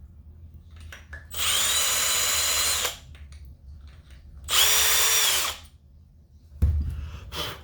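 Power drill run in two short bursts, each spinning up and winding down, with the bit cutting aluminium from the heavy side of an engine flywheel to balance it. A low thump follows near the end.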